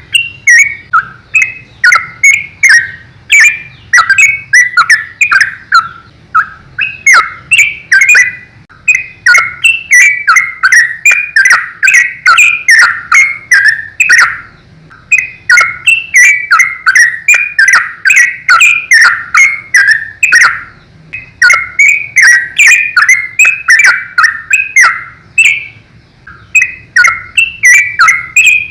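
Trucukan (yellow-vented bulbul) singing a rapid, nearly nonstop run of short bubbling notes, the phrases broken only by brief pauses every several seconds: the continuous 'ropel' song of a bird in full voice.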